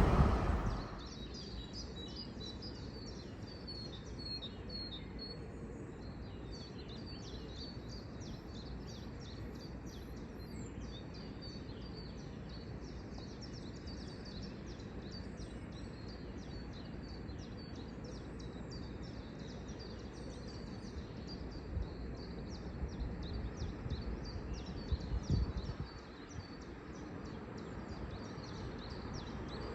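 Small birds chirping rapidly and repeatedly over a steady low background rumble. The noise of a passing train dies away in the first second, and a few louder low thuds come around two-thirds of the way through.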